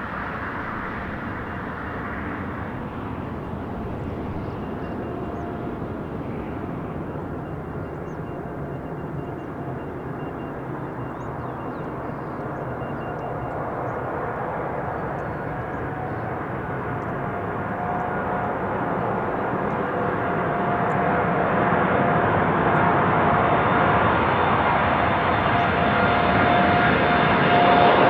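Jet airliner engines heard as the aircraft draws closer, a rumble with a steady whine that grows steadily louder through the second half.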